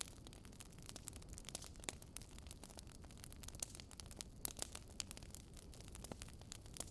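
Wood fire crackling quietly: irregular sharp snaps and pops over a low steady hiss.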